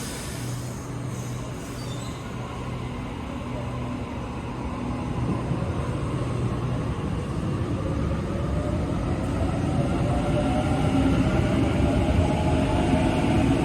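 Electric suburban train's traction motors whining, rising slowly in pitch and growing steadily louder as the train gathers speed, over a low steady hum and rail noise.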